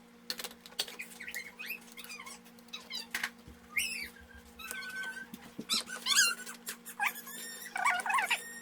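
A pet animal whimpering and squeaking: many short high-pitched calls that rise and fall, growing stronger near the end, with a few sharp clicks among them.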